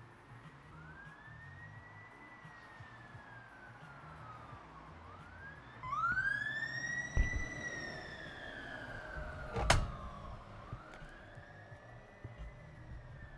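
Emergency vehicle siren in a slow wail, each rise and fall lasting about four to five seconds, swelling loudest in the middle and then fading. Two sharp knocks stand out, the louder about two thirds of the way in.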